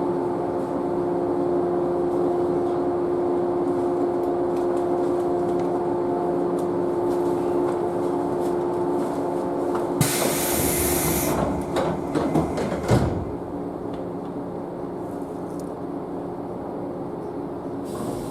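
JNR 113-series electric train standing at a station, its onboard machinery giving a steady hum of several tones. About ten seconds in a burst of compressed-air hiss is followed by a few clunks of the pneumatic sliding doors closing before departure.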